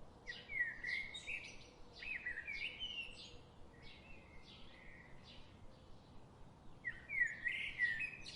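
A bird singing in four phrases of quick chirps and short rising and falling whistles, each about a second long, the third fainter, with a pause of over a second before the last.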